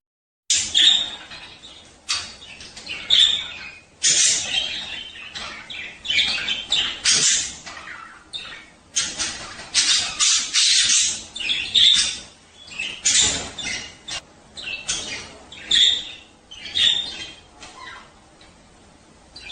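Budgerigars warbling and chattering in a dense, uneven run of quick chirps and harsher calls: the breeding-season song of male budgies. It starts after a moment of silence.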